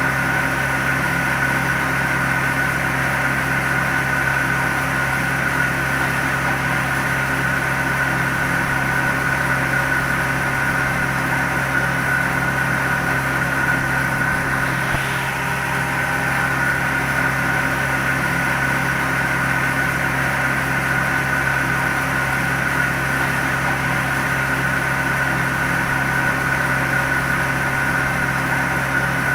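Small motor of a miniature DIY tractor/flour-mill model running steadily, a constant hum with a high whine that does not change in speed.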